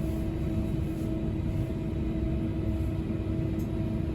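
Onboard a TransPennine Express Class 397 electric multiple unit in motion: a steady low rumble from the running gear, with a constant electric hum over it.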